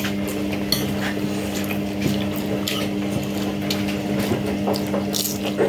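A small electric motor or appliance hums steadily, with scattered light clicks and rattles over it. The hum cuts off right at the end.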